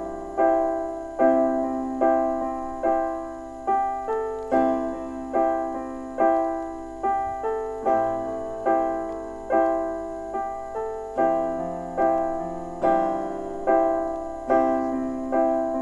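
Background music: a solo piano playing a slow, gentle melody, one note or chord about every second, each ringing out and fading before the next.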